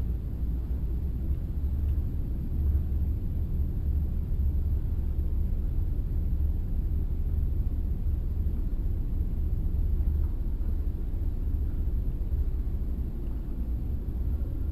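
Steady low rumble with no shots or voices, and a faint thin high tone held throughout.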